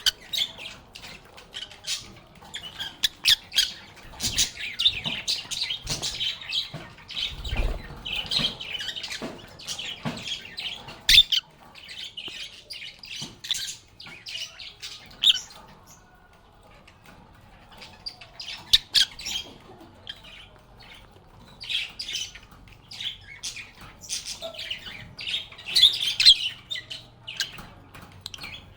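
A group of lovebirds chattering with rapid high-pitched chirps and sharp squawks, in busy bursts with a brief lull about two-thirds of the way through. A few low thumps and knocks come through in the first third.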